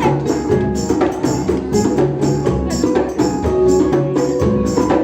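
Live band music, an instrumental passage with a steady beat on tambourine-like shaken and struck percussion over sustained keyboard or guitar notes.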